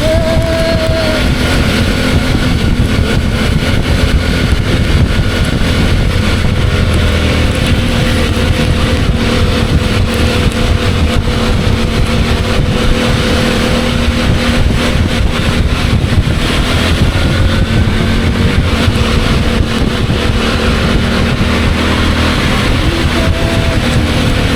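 CFMOTO 800MT's parallel-twin engine running on the move, its pitch drifting gently up and down with road speed, under a steady rush of wind and road noise.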